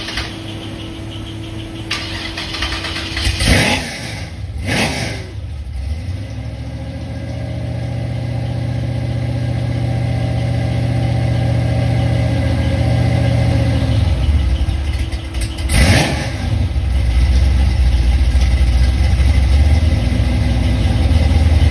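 1988 Oldsmobile Cutlass engine running through its new exhaust with a deep, steady low drone that grows louder over the first dozen seconds. A few brief louder bursts cut through it, the loudest about three and a half seconds in and near the end.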